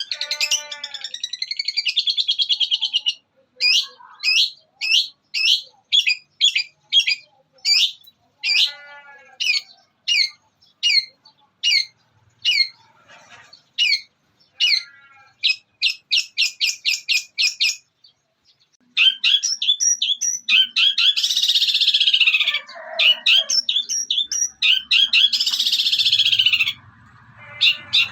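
Long-tailed shrike singing a varied, mimicking song: a fast trill, then a run of sharp falling chips one or two a second that speed up into a dense chatter, and about two-thirds of the way in, harsh rasping squawks in long phrases.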